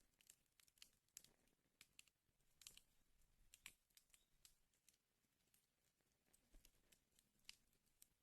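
Wood fire crackling faintly: irregular sharp snaps and pops over a low hiss. The snaps come thickest in the first half, with a few louder single pops later.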